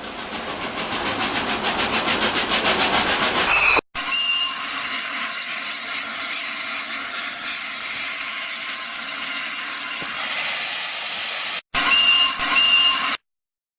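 Steam locomotive sounds: fast, rhythmic chuffing that grows louder, then after an abrupt cut a steady hiss of escaping steam with a brief whistle, and near the end two short whistle toots before the sound stops suddenly.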